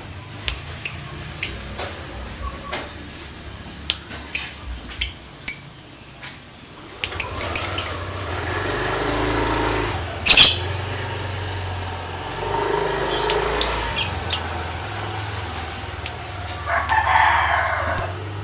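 Lovebird chattering in short, sharp chirps, with a quick run of notes about seven seconds in and one very loud shriek about ten seconds in. This is the rapid 'ngetik' song of a lovebird in full voice. Longer drawn-out calls, likely a rooster crowing, come in around the middle and near the end.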